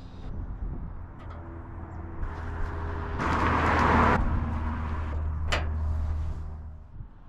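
Electric drill running as it drills a hole through the hood's sheet metal, with a louder grinding stretch about three seconds in and a sharp click near the end.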